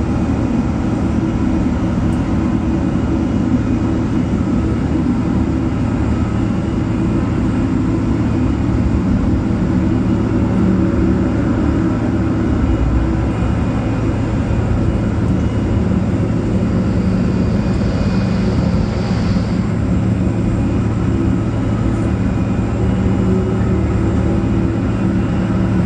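Jet airliner engines running steadily: a loud low hum, with a brief high whine joining in about two-thirds of the way through.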